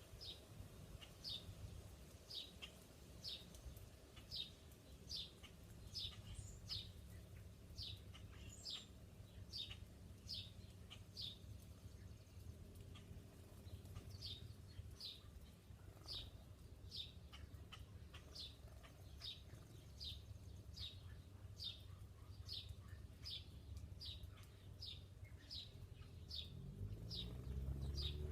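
A bird chirping over and over, one short high note about once or twice a second, over a steady low rumble. Near the end a low sound rising in pitch swells up.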